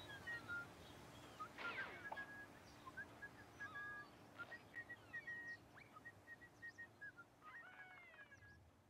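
Faint birdsong: scattered short chirps and whistled notes, some sliding down in pitch.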